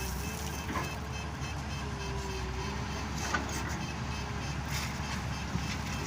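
Heavy diesel machinery running steadily, with a thin wavering whine over the engine hum and a few light knocks.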